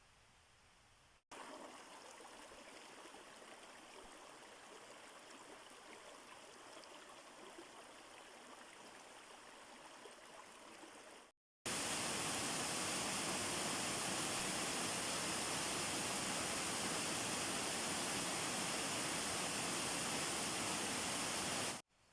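Running water of a stream, a steady rushing without any pitch, in two takes: a softer one, then after an abrupt cut about halfway through, a much louder, closer one that cuts off suddenly near the end.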